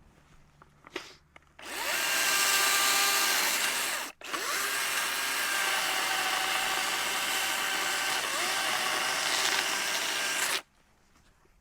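A power tool runs in two bursts, about two seconds and then about six seconds with a brief stop between, starting and cutting off abruptly.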